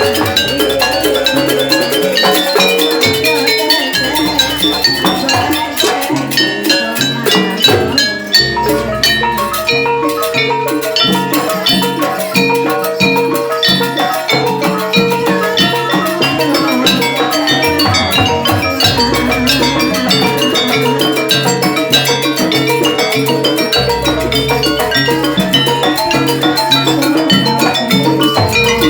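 Live jaranan ensemble music: a fast, dense beat of drum and tuned percussion strokes with a held melody line above it.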